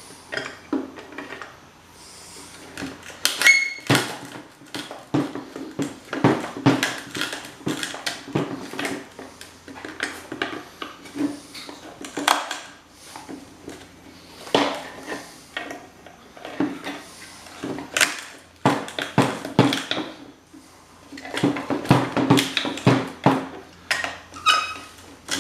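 Hand tools and metal parts of a pump motor clinking and knocking on a workbench, in irregular clusters of sharp taps and clatter.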